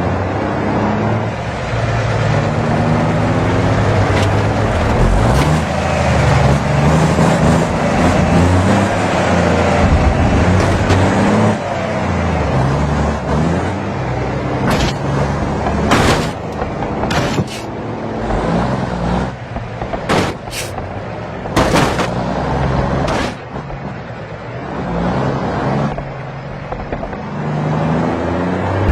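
Heavy truck engine running under load with tyre and road noise, its pitch stepping up and down, and several short sharp sounds in the second half.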